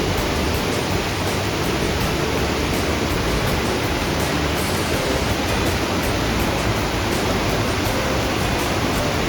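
Mountain creek water rushing steadily over rocks, an even unbroken noise.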